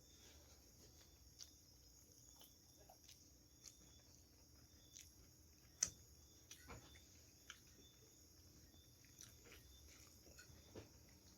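Faint chewing and wet mouth clicks from a person eating, over a steady high-pitched chirring of crickets; one sharper click about six seconds in.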